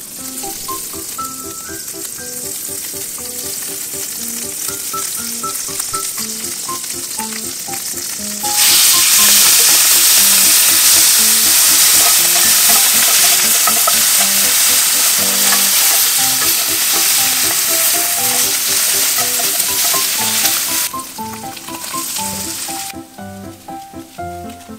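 Butter sizzling in a hot cast-iron skillet. About eight seconds in the sizzle turns much louder as chopped kimchi fries in the melted butter and is stirred with a wooden spoon, then it dies down again a few seconds before the end.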